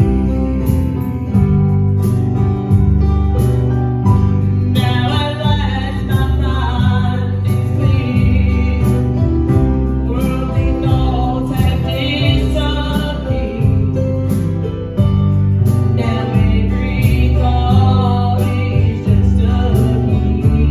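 Live gospel music: a group sings over a guitar and bass accompaniment, with the singing breaking off and returning in phrases.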